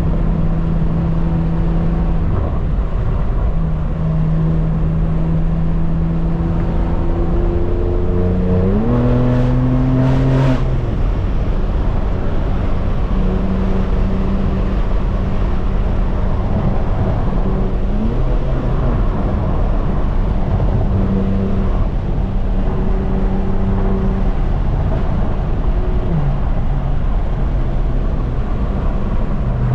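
Straight-piped BMW M4 Competition's twin-turbo inline-six exhaust heard from inside the car, cruising and then rising sharply in pitch under acceleration about nine seconds in, with two sharp cracks at the top of the rise. Heavy wind noise on the microphone from the open windows runs under it.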